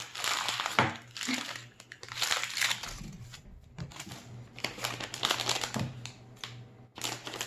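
Plastic toy packaging crinkling in several irregular bursts as a small packet is handled and torn open.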